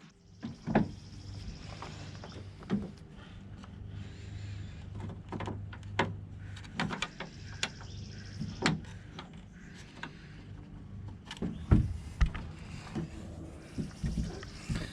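Scattered clicks and knocks of hands working a tailgate bumper out of and into its slot at a truck's tailgate and bed, over a steady low hum.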